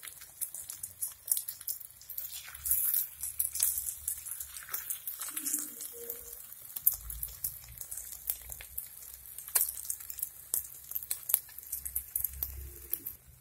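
Egg paniyaram frying in oil in a paniyaram pan: irregular, high-pitched crackling and popping of the hot oil.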